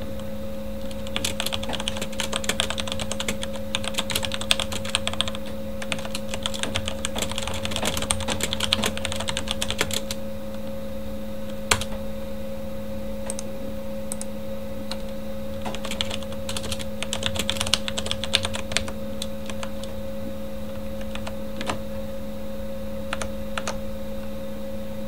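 Typing on a Corsair K70 mechanical keyboard with Cherry MX Red linear switches: fast runs of keystrokes for the first ten seconds and again briefly later, with scattered single key presses between and near the end. A computer fan hums steadily underneath.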